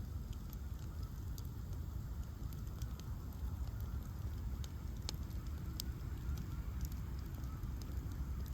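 Ash-log bonfire burning with a steady low rumble and scattered sharp crackles and pops, one louder pop about five seconds in.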